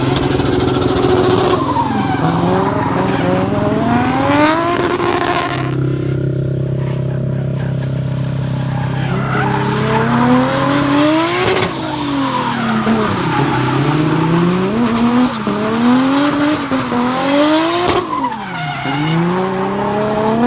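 Drift car's engine revving up and down again and again as it slides, the pitch climbing and dropping several times, over the steady hum of another engine idling.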